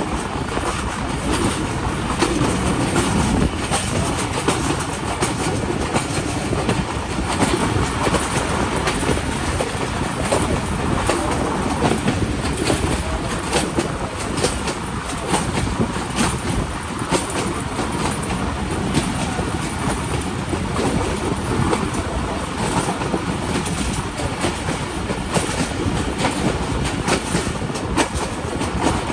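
Passenger train coach running along the track, heard from its open window: a steady rumble and rush of wheels on rails, with frequent sharp clacks as the wheels cross rail joints.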